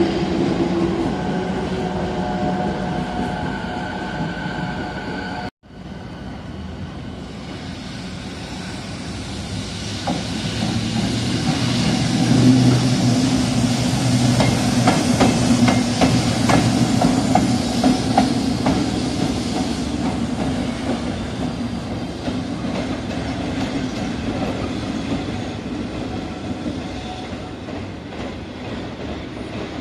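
A freight train of tank wagons rolling past, then, after a sudden cut, a JR Freight EF65 electric locomotive running light along the track. Its wheels clatter over the rail joints as it passes, and its sound grows louder, then slowly fades as it moves away.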